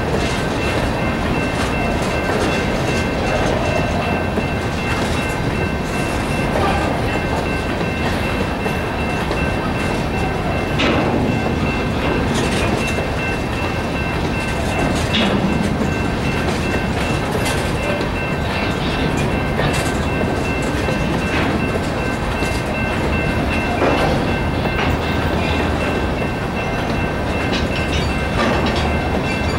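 Freight train of open-top gondola cars rolling through a grade crossing: a steady rumble of wheels on rail with irregular clanks and clicks as the wheels cross the joints. Over it, the crossing's General Signals Type-2 electronic bell rings steadily.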